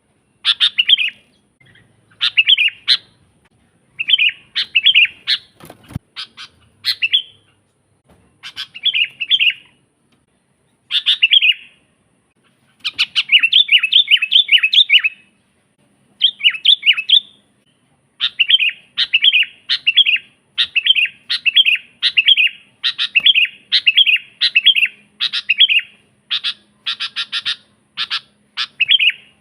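Sooty-headed bulbul (kutilang) singing: short bubbly phrases of a few quick notes, repeated every second or two and coming closer together in the second half.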